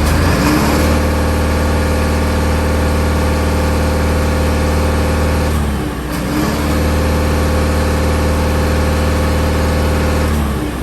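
Isuzu 6UZ1 inline-six diesel engine of a heavy truck revved up and held at raised speed twice, dropping back briefly about six seconds in. It is running smoothly, without odd noise.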